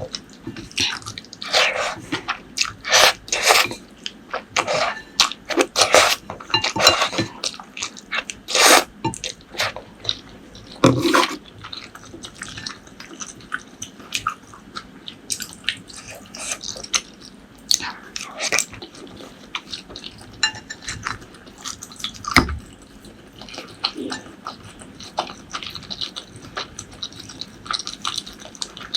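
Close-miked eating sounds: wet chewing, smacking and mouth clicks in quick, irregular bursts, louder over the first dozen seconds and softer after.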